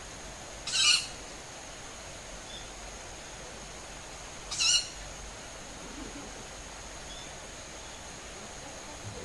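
Two short, harsh screeching calls about four seconds apart from an unidentified bird calling at dusk, which the recordist suspects is a juvenile owl. A steady thin high whine runs underneath.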